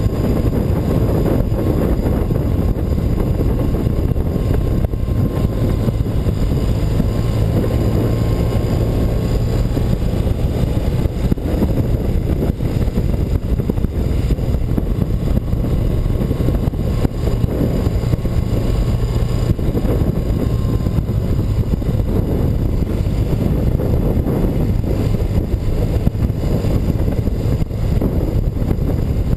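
BMW R100RS's air-cooled flat-twin engine running steadily while riding, with wind noise over it.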